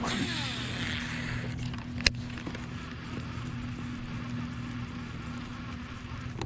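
A motor running steadily with a constant hum as the kayak moves across the water, with water rushing along the hull at first. One sharp click about two seconds in.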